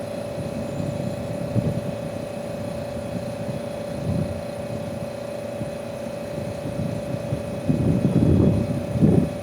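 Steady mechanical hum of running machinery with a low rumble underneath, the rumble growing louder for a second or so near the end.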